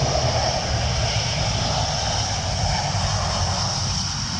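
Jet engines of a Thai Smile Airbus A320 airliner on its landing roll just after touchdown, a loud, steady rushing noise with a high hiss over a low rumble.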